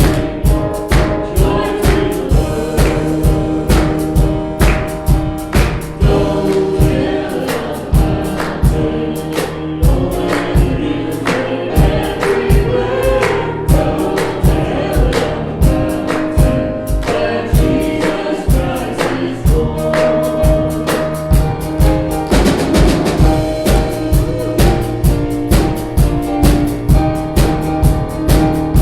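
Christian worship music: a choir singing in gospel style over a steady drum beat.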